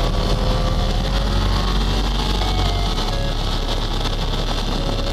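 2009 Yamaha YZF-R1's crossplane inline-four engine running at speed on board the bike, mixed with wind rush.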